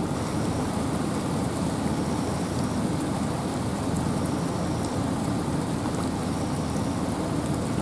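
Steady rain and wind in a forest: an even, unbroken rushing hiss, heaviest in the low range, with faint ticks of individual drops.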